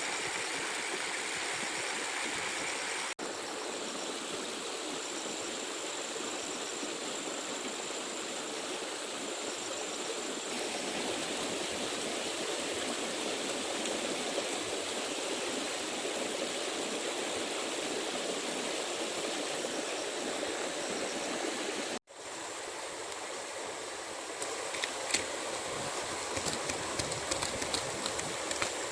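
Steady rushing of a flowing stream. It is broken by two abrupt cuts, about 3 seconds in and about 22 seconds in, and a few sharp clicks sound over the water near the end.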